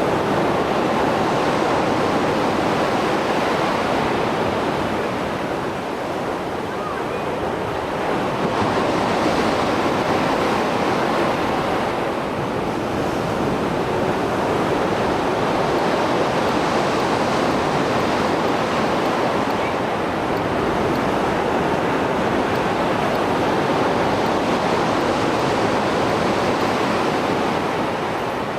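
Rough sea surf after a storm, waves breaking and washing on the shore in a continuous rush that swells and eases every few seconds.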